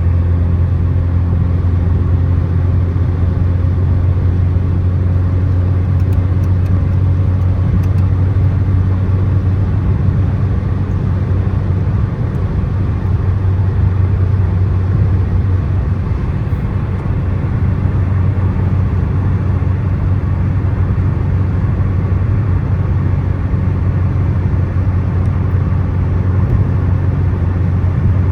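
Steady road and engine noise of a car cruising on a highway, a constant low hum that holds level throughout.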